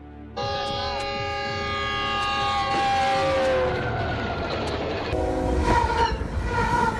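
Train air horn sounding a long multi-tone chord that sags slightly in pitch about three and a half seconds in, followed by the noisy rumble of a train going by.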